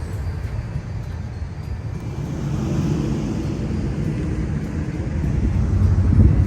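Cars cruising past with a low engine rumble that swells about two and a half seconds in and again near the end.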